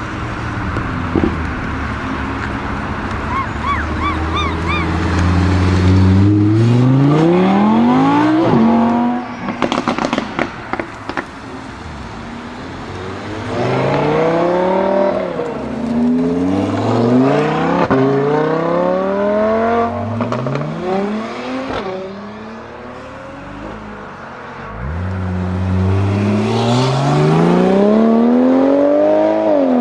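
Porsche 997 Turbo's twin-turbo flat-six through a Soul competition exhaust, accelerating hard several times, the engine note climbing steeply and then dropping back. A run of sharp crackles follows the first pull.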